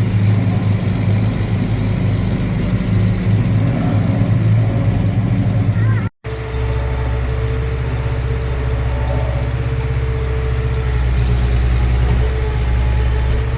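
Tractor engine running steadily, heard from inside the cab. About six seconds in the sound cuts off abruptly and resumes with a deeper steady engine note and a faint higher steady tone.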